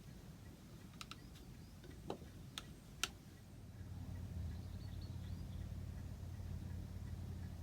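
A handful of sharp, light clicks and taps, as of small hard parts being handled, spread over the first three seconds. A low steady hum comes in about four seconds in and holds.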